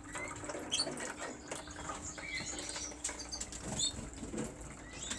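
Canary cock birds fluttering about in their cages: wing flaps and light clicks, with a few short chirps.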